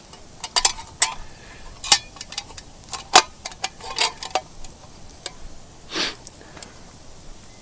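Irregular sharp clicks and light knocks, the loudest about three seconds in, with a brief scrape about six seconds in.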